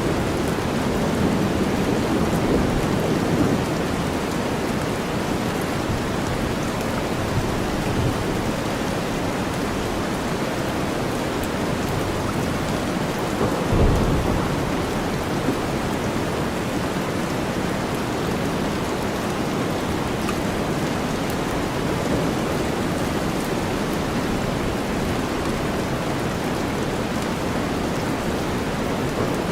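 Steady heavy rain over a bed of deep white noise, with low thunder rumbling in the first few seconds and a short, louder rumble about 14 seconds in.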